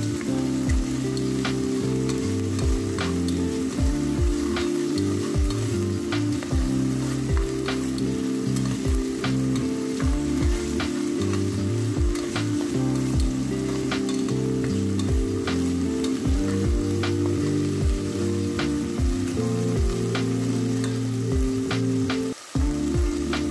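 Onion, garlic, ginger and shrimp paste sizzling in hot oil in an aluminium pot while being stirred, the spoon scraping and knocking against the pot about once or twice a second.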